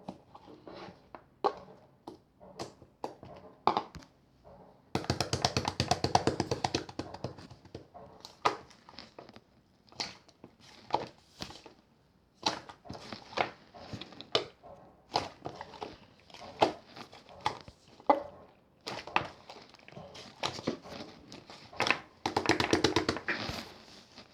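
Hands squishing and pressing clear slime: a string of sticky pops and clicks, with two spells of dense crackling air bubbles, about five seconds in and again near the end.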